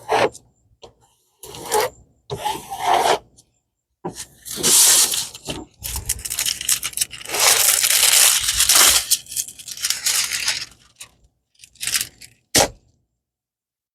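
Plastic packaging of a diamond painting kit crinkling and tearing as it is handled and opened, in irregular bursts, busiest from about four to eleven seconds in, ending with a couple of short rustles.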